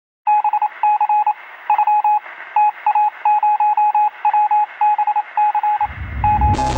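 Rapid electronic beeps at one steady pitch, in short irregular groups of longer and shorter tones, with a thin, band-limited sound. A low rumble of music swells in near the end.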